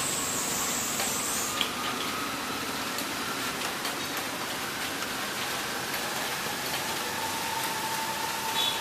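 Steady hiss of heavy rain, with a few faint drip-like ticks and a faint thin tone wavering in the background.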